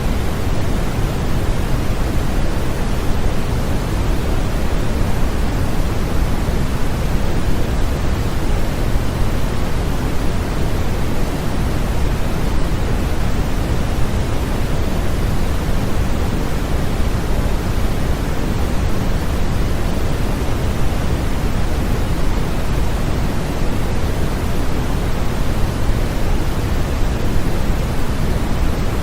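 Continuous sleep-aid white noise: a steady, even hiss, heavier in the low end and unchanging throughout.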